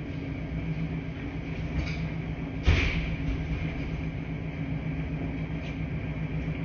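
Laundry-room washing machines running with a steady hum and low rumble. A single sharp knock comes a little under three seconds in, with a couple of faint taps around it.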